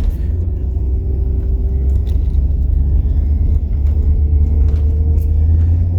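Road noise inside a moving truck's cab: a steady low rumble, with a faint whine that slowly rises in pitch.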